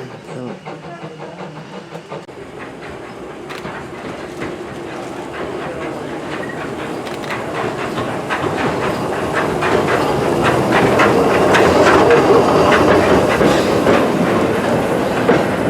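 A train approaching and running past, its wheels clattering over the rail joints. It grows steadily louder to a peak about twelve seconds in.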